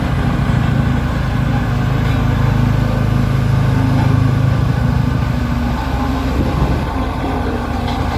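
Heavy construction machine's diesel engine running steadily and loudly, with a deep drone that swells from about one second in and eases off after about five seconds.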